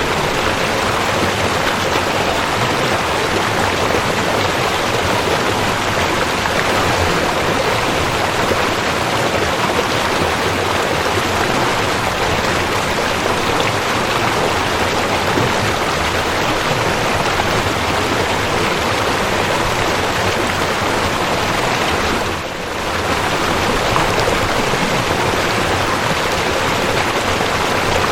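Waterfall: water pouring and splashing in a continuous, even rush, with a brief dip in loudness about three quarters of the way through.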